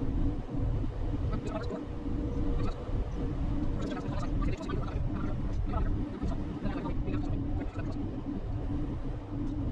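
Road noise inside a moving RV: a steady low rumble of engine and tyres, with a faint steady hum and light, scattered rattles.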